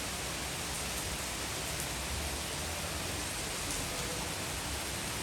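Steady rainfall, a dense even hiss with faint scattered drop ticks.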